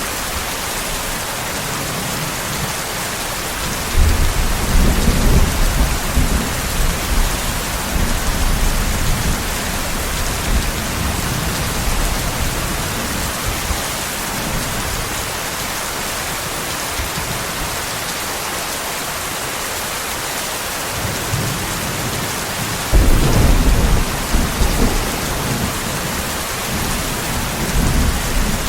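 Steady rain hiss with rolling thunder: a low rumble begins about four seconds in and fades over several seconds, and a second, sharper peal comes about 23 seconds in, followed by a weaker rumble near the end.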